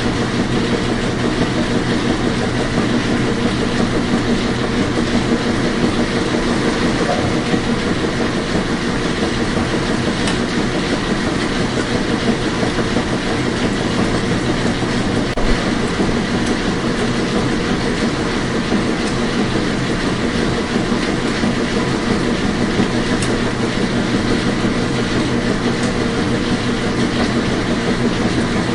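Washing machine running: a steady hum over an even rushing noise, with one sharp knock about fifteen seconds in.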